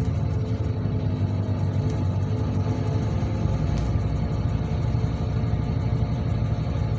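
Bus engine running steadily with a low rumble of road noise, heard from inside the moving bus.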